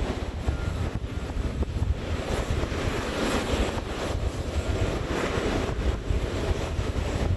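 Wind buffeting the microphone over the distant rumble of jet aircraft engines, which swells a little toward the middle.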